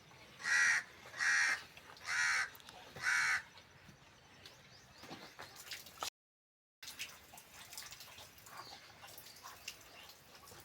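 A bird calling four times in quick succession, harsh cawing calls a little under a second apart. After them the sound cuts out completely for a moment, and then there are only faint scattered ticks and rustling.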